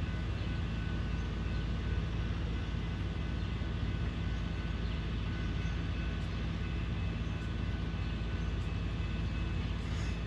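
Steady low rumble of a train approaching a grade crossing whose signals are flashing, with faint steady tones higher up.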